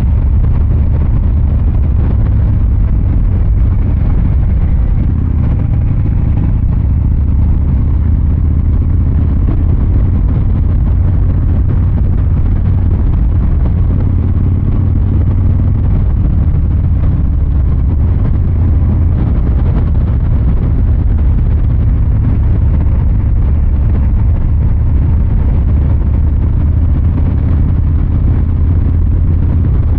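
Harley-Davidson Fat Boy 114's Milwaukee-Eight 114 V-twin running loud and steady through its exhaust while being ridden, with its deep, even low note holding at a fairly constant engine speed.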